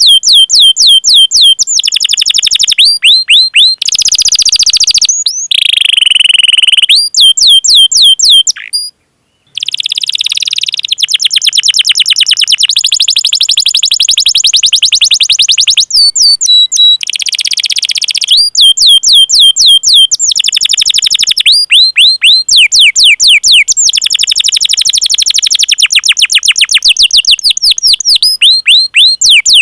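Domestic canary singing a long song: rapid runs of high, sharp downward-sweeping chirps alternating with fast rolling trills, with a short break about nine seconds in.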